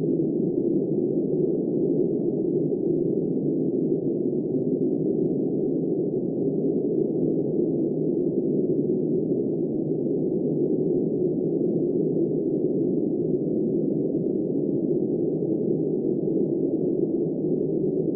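Steady, muffled wind noise, even in level with no gusts, rain or other events.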